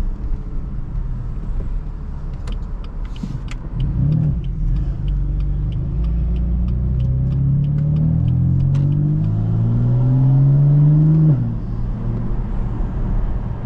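BMW F82 M4's twin-turbo straight-six accelerating hard through the gears: the engine note climbs, drops back at each upshift and climbs again three times, then cuts off suddenly when the throttle is lifted. Sharp clicks sound over the first half.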